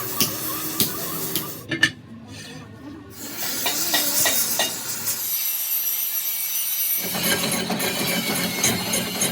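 Metalworking tools rasping and rubbing on metal in several short stretches that switch abruptly about a third, halfway and three quarters of the way through, with scattered clicks early on.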